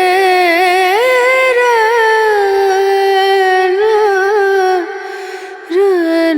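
Background Hindi song: a singer holds long drawn-out notes with vibrato, the voice easing off about five seconds in and coming back just before the end.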